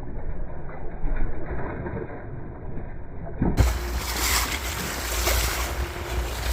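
Wind and sea noise on a small boat in a choppy sea, with a low rumble. About three and a half seconds in, the sound switches abruptly from a muffled rush to a louder, fuller wind buffeting on the microphone.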